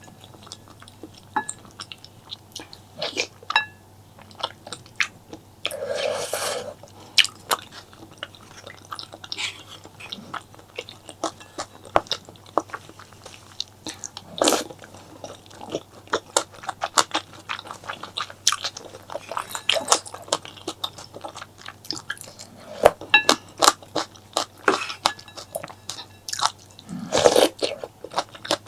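Close-miked eating: chewing and biting with a dense run of small sharp mouth clicks and a few crunches, and a longer, louder burst about six seconds in and again near the end.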